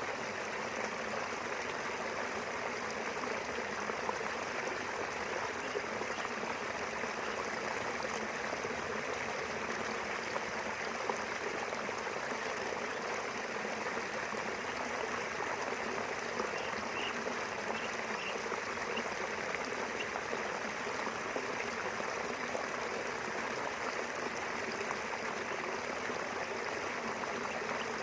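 Small river running between rice fields: a steady, continuous rush of flowing water.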